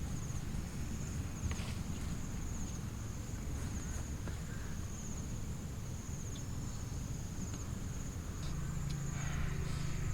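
An insect trilling steadily at a high pitch, over a low rumble and a few soft knocks.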